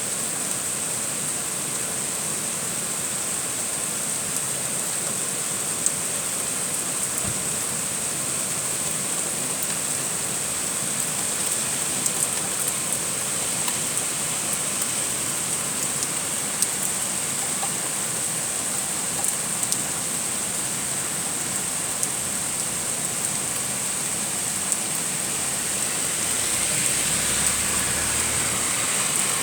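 Heavy rain falling steadily, a dense even hiss with scattered sharp drop clicks. Near the end a vehicle passes on the wet road, its swishing hiss swelling and then falling.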